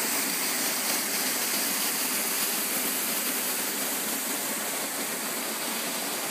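Waterfall rushing: a steady hiss of falling water, with little deep rumble.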